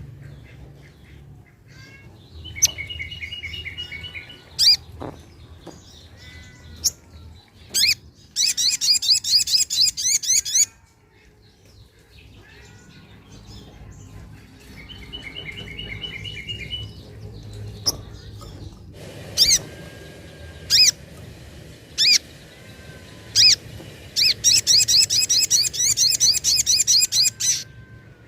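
Little spiderhunter (sogok ontong) calling: sharp single chips, short trills and long runs of rapid high chattering notes, each run two to three seconds long. The same sequence of calls comes round again about halfway through.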